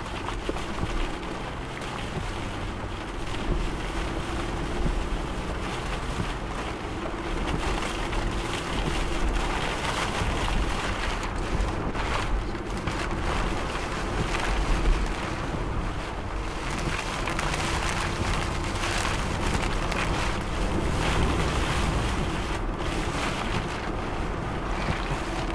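Steady rush of storm wind and road noise heard from inside a moving vehicle, with a faint steady hum underneath.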